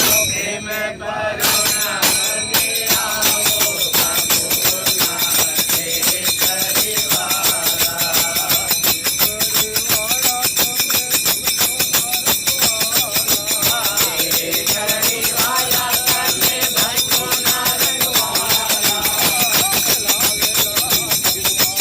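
A group singing a Gujarati devotional song to a fast, steady beat of jingling hand percussion.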